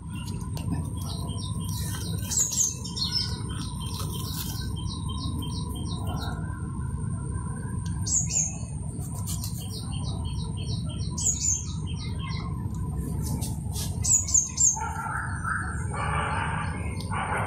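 A bird singing, four phrases of rapid, evenly repeated high chirps, each opening with a couple of short falling notes, over a steady low rumble.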